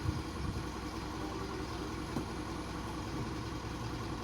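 Truck engine idling steadily, with a short knock just after the start and a faint click about two seconds in.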